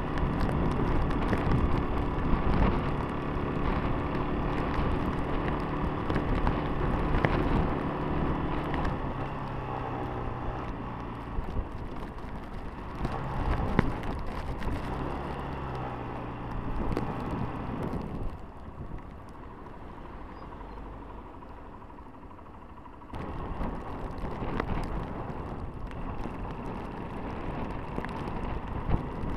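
Honda CBF125's single-cylinder four-stroke engine running as the motorcycle rides, under wind and road noise. The engine note steps down in pitch a few times around the middle, turns quieter for about five seconds, then picks up again near the end.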